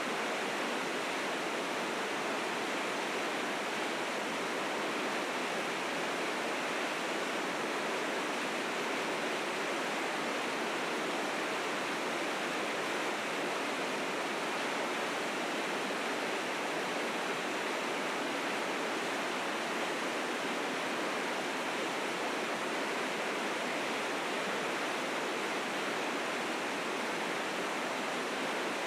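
River rapids rushing, a steady, unbroken roar of fast white water swollen with spring snowmelt.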